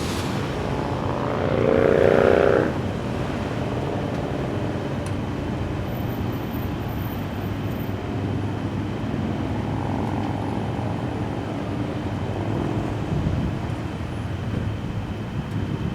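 Vehicle engines running with a steady low hum throughout. One vehicle swells louder with a slightly rising engine note for about a second, around two seconds in.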